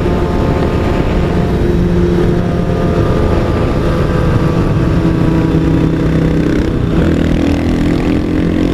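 Kawasaki ZX-6R 636 inline-four sport bike engine running steadily while riding, its pitch shifting a little around the middle, with wind and road noise, heard through a helmet-mounted microphone.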